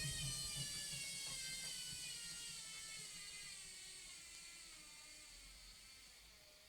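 Logik washing machine's drum coasting to a stop at the end of its final spin: the motor's whine falls steadily in pitch and fades away.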